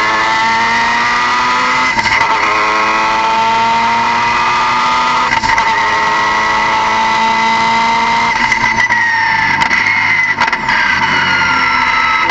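Car engine pulling with a high whine that climbs slowly in pitch along with the engine note, broken briefly about two and five and a half seconds in, then falling away near the end.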